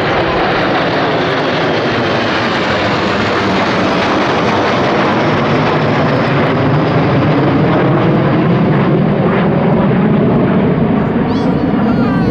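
Military fixed-wing aircraft flying over in a parade fly-past: a loud, steady rushing engine noise that swells slightly in the second half.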